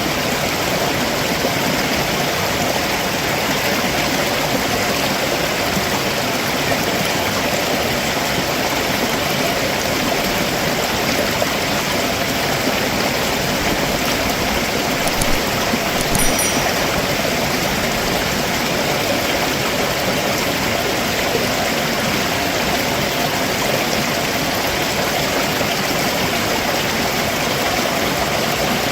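Stream water rushing over rocks below a waterfall: a steady, even rush with no breaks. A few brief high clicks come about halfway through.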